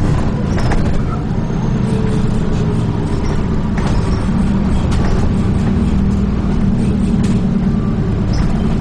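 Dennis Trident 2 double-decker bus running along: a steady low engine and road noise, with a few sharp knocks and rattles from the bus's body.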